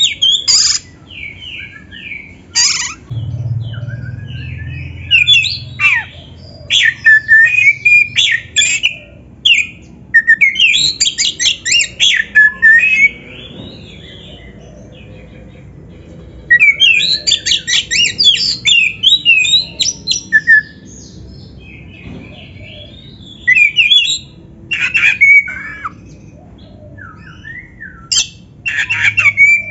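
Oriental magpie-robin (kacer) singing loud, varied phrases of fast trills, whistles and harsh squawky notes. The song comes in bursts a few seconds long with short pauses between.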